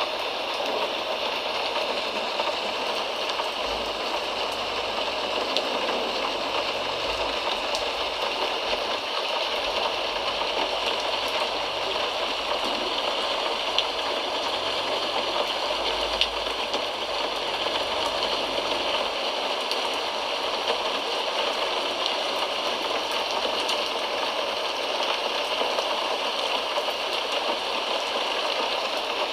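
Steady rain falling, an even hiss of rain with a few faint drop ticks.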